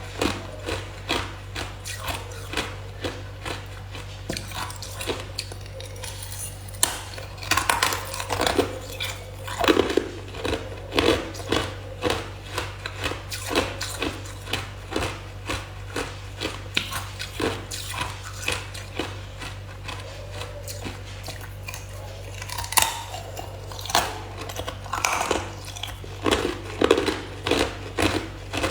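A person biting and chewing hard ice, a steady run of crunches a few times each second. A steady low hum sits underneath.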